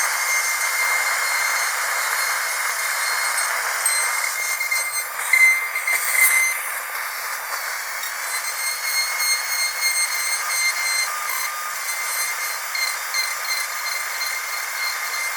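Dental drill running with a steady high-pitched whine over a hiss, briefly louder and changing in pitch about five to six seconds in.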